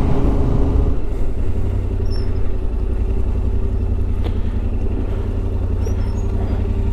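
Yamaha Ténéré 700's parallel-twin engine running steadily, heard from the rider's onboard camera.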